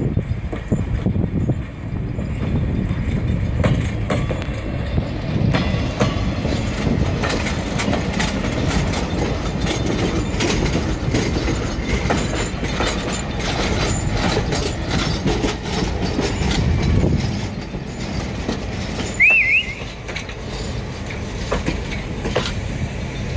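Passenger train cars rolling slowly past close by, a steady rumble with the wheels clicking over rail joints. About three-quarters of the way through there is a brief high squeal.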